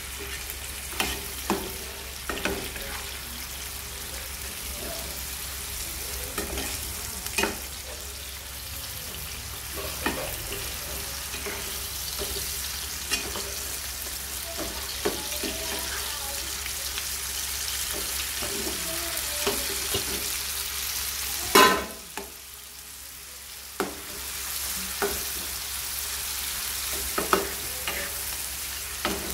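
Chicken and ginger stir-frying in oil in a wok, with a steady sizzle and a metal spatula clacking and scraping against the pan. The loudest clack comes about 21 seconds in, and the sizzle briefly drops for a couple of seconds after it.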